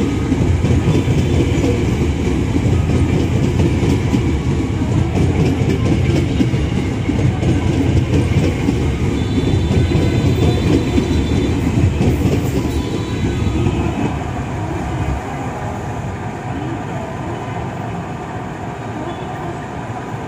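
KRL Commuter Line electric train passing at speed close by, its wheels rumbling and clattering over the rail joints, with a thin high whine about halfway through. At about fifteen seconds the noise drops to a quieter, steady rumble.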